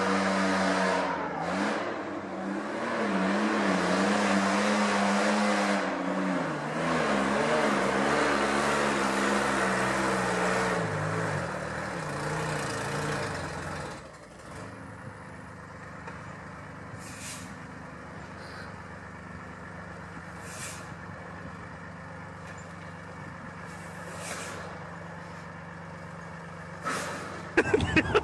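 Heavy truck engine running under strain, its pitch wavering up and down, then dropping abruptly to a lower, steady running sound about halfway through. In the later half, short air-brake hisses come several times.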